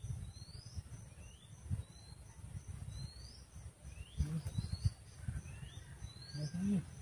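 Birds calling with short, upward-sweeping whistled notes repeated every second or so, over a faint, evenly pulsing insect chirp and a low rumble.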